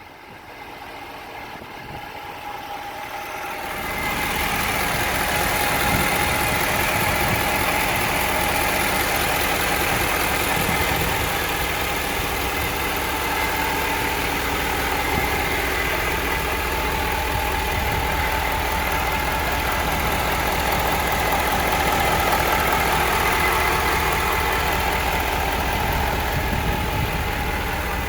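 Ford 6.7 L Power Stroke V8 turbo-diesel idling steadily with a high whine over it, of a cause the owner can't identify. The sound grows louder about four seconds in.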